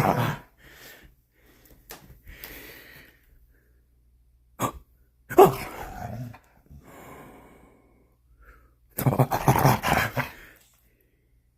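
Pit bull playing rough, giving short bursts of play growls, huffs and snorts, loudest about five and a half and nine seconds in, with a sharp click just before the middle.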